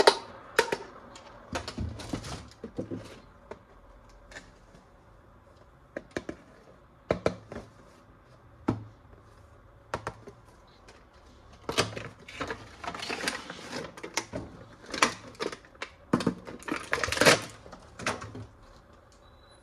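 Irregular clicks, taps and rustling of plastic toy pieces and packaging being handled during an unboxing. There are scattered single clicks, a quieter stretch about four to six seconds in, and denser bursts of handling noise in the second half.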